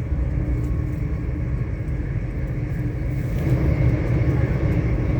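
Steady rumble of a moving passenger train heard from inside the carriage, growing a little louder about three and a half seconds in.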